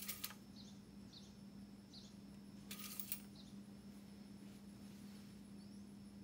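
Quiet background with a steady low hum and faint high chirps repeating every half second or so. Two brief clusters of clicks come at the start and about three seconds in.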